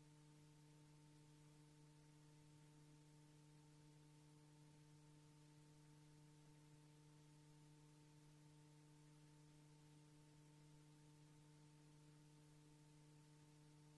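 Near silence: a faint, steady electrical hum over tape hiss, with no other sound.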